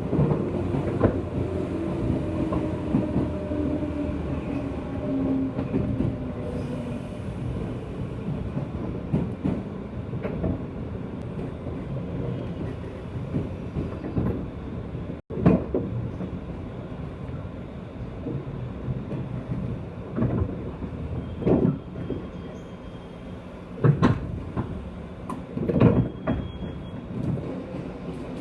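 Interior of a JR West 201-series electric train's motor car running: a steady rumble of wheels and running gear, with a whine falling slowly in pitch over the first several seconds. Several sharp clacks of the wheels over rail joints come in the last third.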